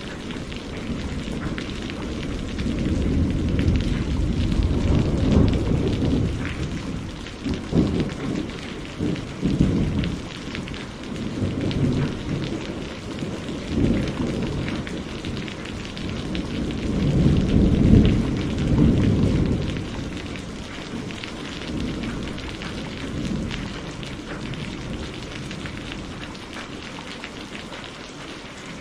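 Steady rain with a long roll of thunder that swells in several surges, loudest about eighteen seconds in, then fades away, leaving the rain.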